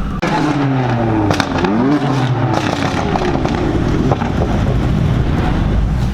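A vehicle engine being revved hard several times, its pitch climbing and dropping quickly in the first couple of seconds, with a few sharp cracks among the revs. It then settles into a steadier run.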